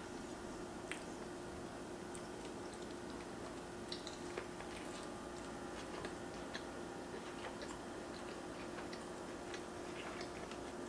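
A person chewing a mouthful of roasted chicken sandwich with the mouth closed: soft, irregular wet mouth clicks and smacks over a steady faint hum.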